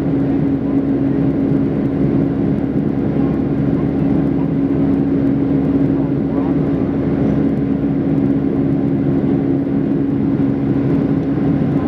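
Steady drone of an airliner in flight heard from inside the passenger cabin: even engine and air noise with a constant low hum.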